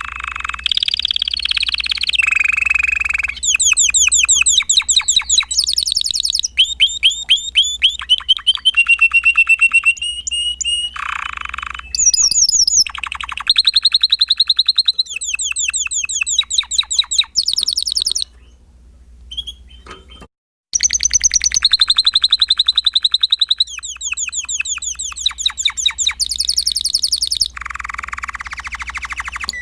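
Spanish Timbrado canary singing: a long song made of fast repeated-note trills and rolling tours, each run a second or two long, switching pitch from one run to the next. It breaks off for about two seconds a little past the middle, then carries on.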